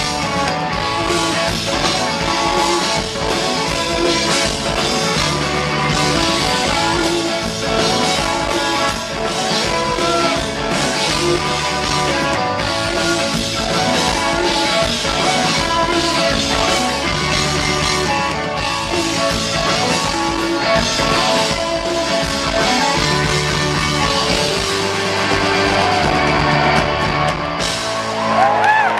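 Live rock band playing an instrumental stretch: electric guitars over bass and a drum kit keeping a steady beat, with bending, gliding guitar notes near the end.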